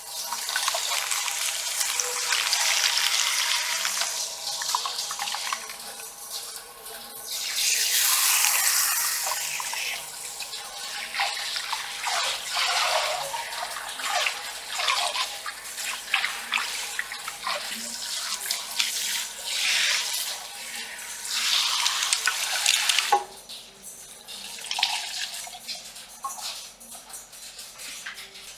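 Handheld shower sprayer rinsing hair at a salon wash basin: running water spraying and splashing, swelling and fading as it moves over the head. It cuts off about 23 seconds in, leaving fainter splashes and drips.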